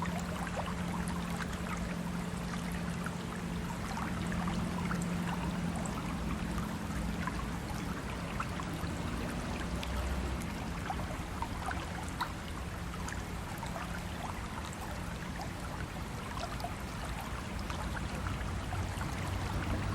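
Stream water running and trickling steadily, with many small splashes. A low, steady hum sits underneath and fades out about two-thirds of the way through.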